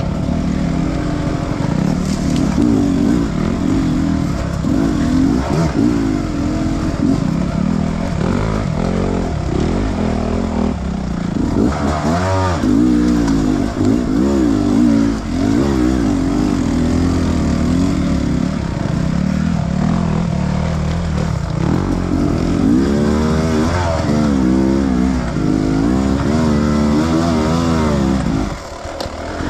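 Enduro dirt bike engine revving up and down as the throttle is worked, its pitch rising and falling over and over, briefly dropping in level near the end.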